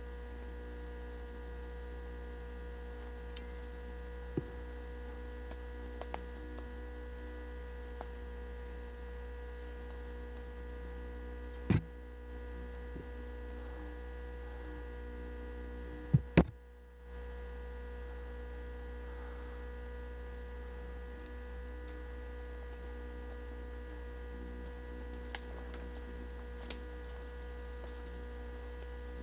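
Steady electrical hum with several stacked tones, broken by a few scattered sharp clicks; the loudest come as a pair about sixteen seconds in, followed by a brief drop in the hum.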